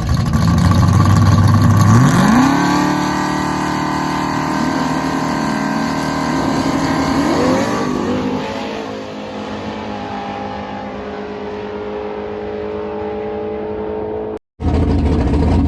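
Race truck engine revving: steady low at first, then climbing steeply in pitch about two seconds in and held at high revs. Its pitch wavers briefly near the middle, then it runs steadier and quieter. The sound cuts out for a moment near the end.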